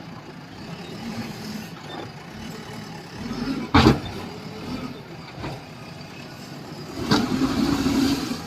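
Diesel engine of a JCB backhoe loader running while loading sand into a tractor trailer, with one loud thud about four seconds in. The engine works harder for about a second near the end.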